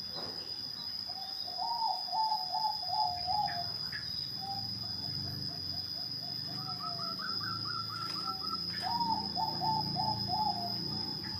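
Zebra dove (perkutut) singing its quick rippling cooing song, two phrases several seconds apart with softer notes between them.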